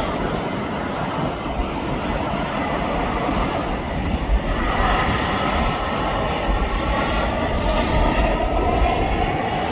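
Airbus A320 jet engines running as the airliner arrives: a steady roar, with an engine whine that grows stronger about halfway through.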